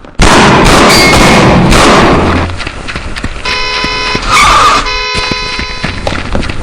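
A loud rushing burst of noise for about two seconds, then a car horn blaring in two long blasts with a short squeal between them.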